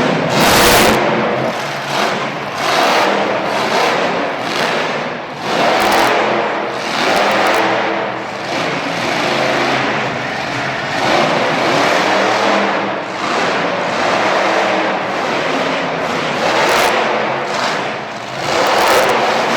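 Monster truck engine revving hard, the sound swelling and falling back every couple of seconds.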